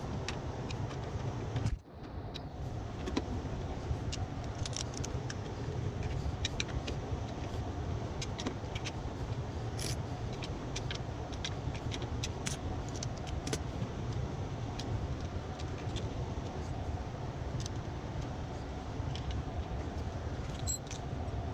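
Steady low hum of running equipment with scattered small metallic clicks and clinks of hand work, as of tools and panel parts being handled.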